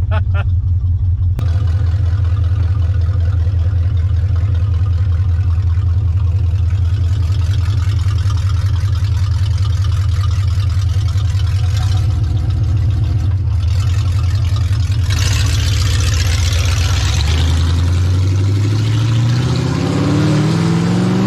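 V8 engine in a 1969 Plymouth Valiant running steadily in gear, then revving up with a rising pitch over the last few seconds as the car accelerates.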